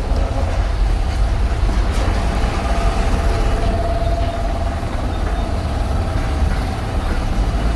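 Steady low rumble of outdoor urban noise, with a faint held tone rising out of it for a couple of seconds in the middle.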